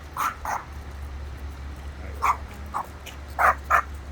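A dog barking and yipping in short, sharp barks, about six of them, the last two in a quick pair, over a steady low hum.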